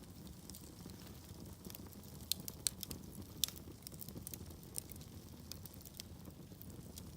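Wood fire burning in a fireplace: a low steady rumble of flames with irregular sharp crackles and pops from the logs, a few louder snaps about two and a half to three and a half seconds in.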